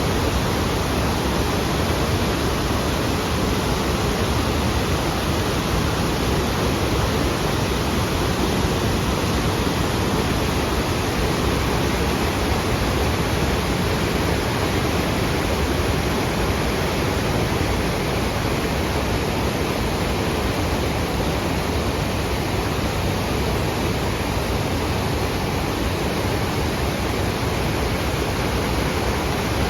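Waterfall rushing steadily: an even, unbroken wash of falling and tumbling water.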